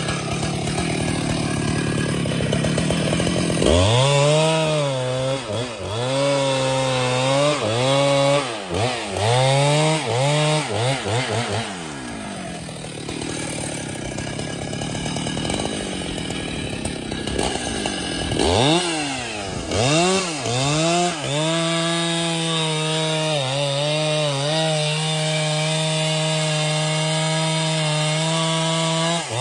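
Chainsaw cutting wood. Its engine pitch dips and climbs back again and again from about four seconds in as the chain loads up in the cut, then holds steady at high speed from about two-thirds of the way through.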